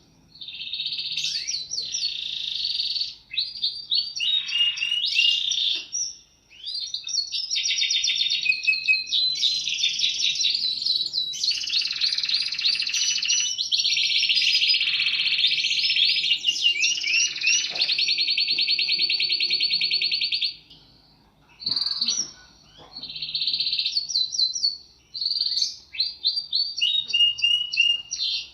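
Domestic canary singing a long, lively song of fast rolled trills and repeated chirping notes, with short pauses about six seconds in and again around twenty-one seconds.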